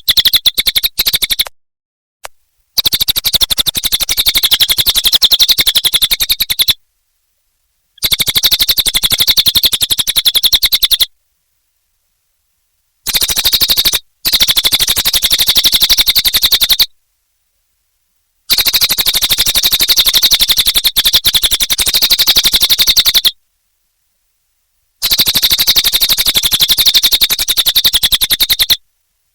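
Cililin bird singing in very rapid, buzzy trills, strongest high up, in bursts of several seconds each separated by gaps of complete silence.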